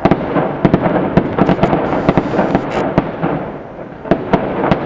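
Fireworks crackling: a shell bursts and a rapid, dense volley of sharp pops follows, easing off a little before a further cluster of pops near the end.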